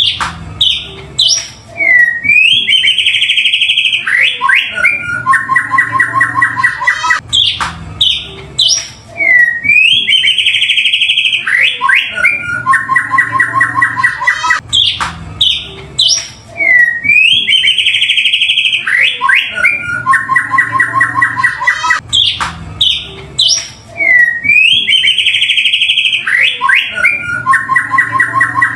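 White-rumped shama song played as a lure recording, one phrase looped about every seven seconds. Each phrase opens with a fast buzzy trill, then high whistled notes with a quick downward slur, and ends in a rapid chattering run.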